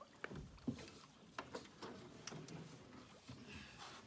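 Scattered light knocks and clicks in a small fishing boat, irregularly spaced, over a faint background hiss.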